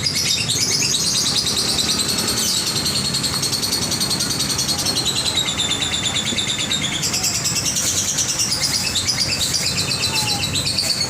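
Lovebird giving its 'ngekek': a long, unbroken, very fast high-pitched chattering trill.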